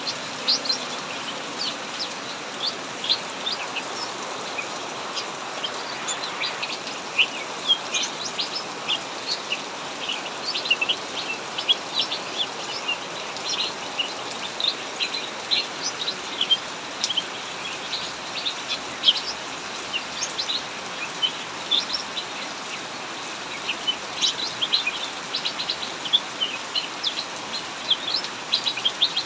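Cucak mini songbird chirping rapidly and almost without pause, a stream of short high notes, over a steady hiss of heavy rain.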